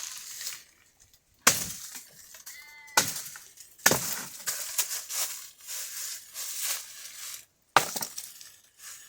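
Dry firewood being cut and broken: four sharp woody cracks, each followed by a second or so of rustling and crackling from dry twigs.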